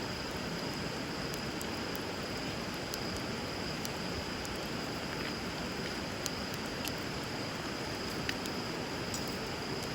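Wood bonfire crackling with sparse, irregular sharp pops over the steady rush of a flowing river.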